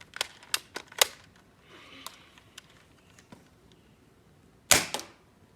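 Nerf Rival Knockout blaster: several sharp clicks in the first second, then one loud shot near the end.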